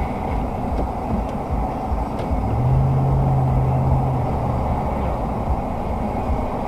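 Steady road and engine noise of a moving car as picked up by a dashcam, a dense low rumble. A low steady tone sounds over it for about a second and a half near the middle.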